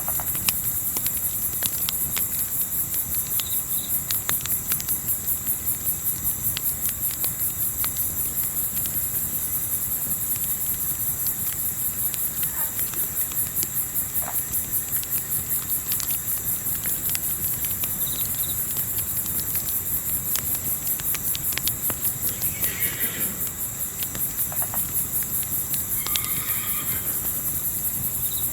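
Night ambience: a steady, rapidly pulsing chorus of crickets, with scattered sharp crackles from a campfire. A couple of short animal calls come in during the second half.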